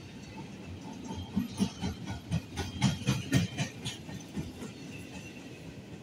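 Empty intermodal well cars of a CSX freight train rolling past, wheels clacking over rail joints: a run of loud, sharp clacks and knocks through the middle, over a steady rumble.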